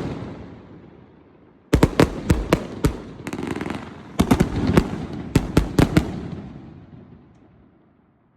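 Master Gold 86s fireworks going off in rapid volleys of sharp bangs: a burst of about half a dozen near two seconds in, then a longer run of about ten. Each volley leaves a long echoing rumble that fades away near the end.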